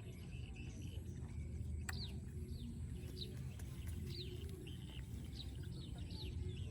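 A small bird chirping over and over: short, high chirps that fall in pitch, coming about every half second, over a steady low background rumble.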